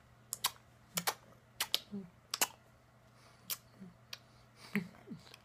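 A person making kissy noises with the mouth: about a dozen sharp, irregular lip smacks and tongue clicks, some with a short hummed "mm".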